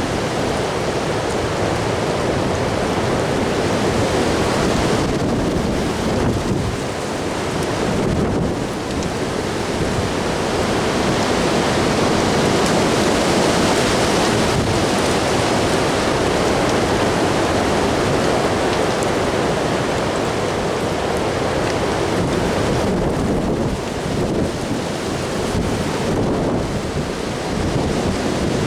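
Strong gusty wind rushing and buffeting the microphone, easing briefly a few times before building again.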